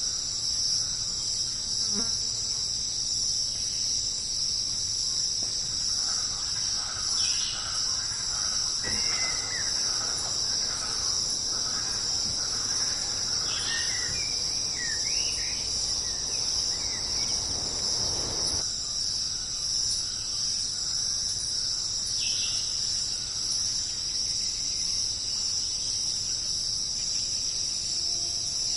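A steady, unbroken chorus of insects such as crickets, high-pitched and continuous, with a few faint chirping calls from other animals through the middle.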